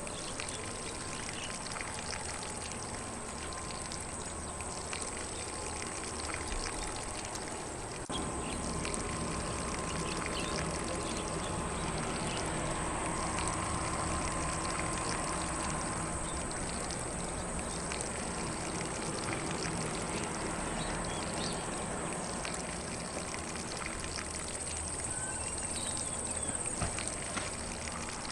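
Lawn sprinkler spraying water across grass, a steady hiss and patter of falling spray that gets a little louder about eight seconds in.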